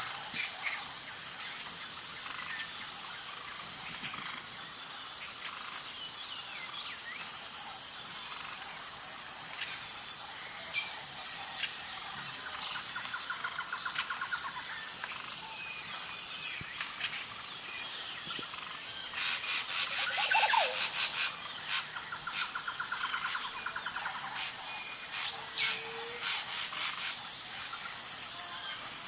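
Outdoor nature ambience: many birds chirping and trilling over a steady, high, pulsing insect drone, with a louder spell of rapid chirping about two-thirds of the way through.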